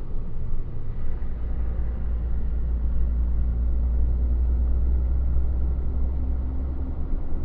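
Truck engine and drivetrain running while driving, a deep, steady low rumble that grows stronger about a second in.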